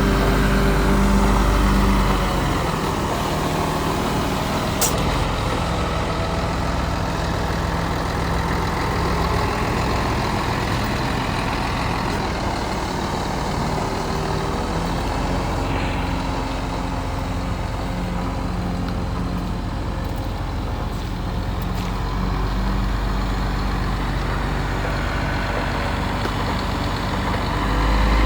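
Scania P124 truck's 12-litre six-cylinder diesel engine running, a steady low drone that drops in level about two seconds in and rises again near the end.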